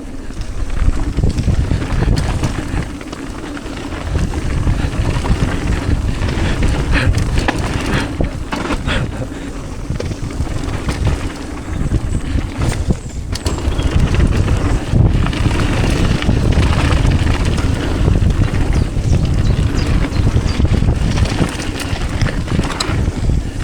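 Wind buffeting the microphone of a rider-mounted action camera as a downhill mountain bike descends a trail. Under it run a steady tyre rumble and scattered sharp knocks and rattles from the bike over bumps.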